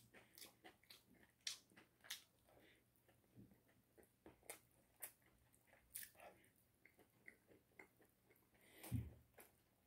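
Quiet chewing and crunching on Goobne chicken: irregular crisp crackles and mouth smacks, with one louder bite and a low thump about nine seconds in.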